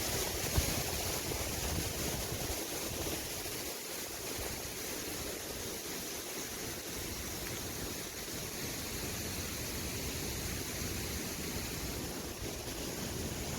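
Strong wind buffeting the microphone, a steady rushing noise with heavier low gusts at the start.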